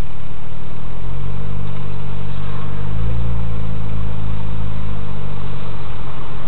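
Gemballa GT600 Evo's twin-turbo flat-six (Porsche 996 Turbo-based), heard inside the cabin, pulling away gently down the pit lane at low revs. The engine note rises a little over the first few seconds, is fullest about three seconds in, then settles into steady low running.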